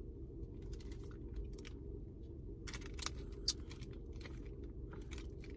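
Someone eating an ice cream cone: scattered small crisp crunches and chewing, over a steady low hum inside a parked car's cabin.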